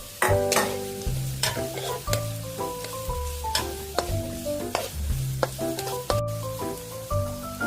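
Kimchi fried rice sizzling in a frying pan as it is stirred, with sharp clicks of the spatula against the pan, under background music with a plucked melody and bass.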